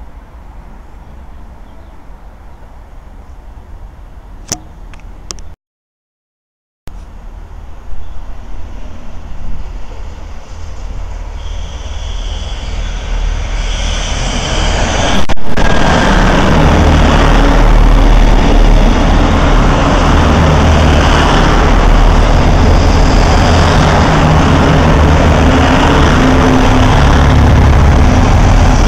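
Irish Rail 29000 class diesel multiple unit pulling into the station: a faint distant rumble, broken by about a second of dead silence, then a sound that grows steadily louder from about eight seconds in as the train nears, and stays loud and steady once it is running alongside the platform.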